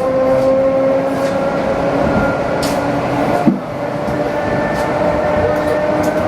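ED4M electric multiple unit running along the track, heard from aboard: a steady rumble with a whine that slowly rises in pitch as it gathers speed, and a sharp click about three and a half seconds in.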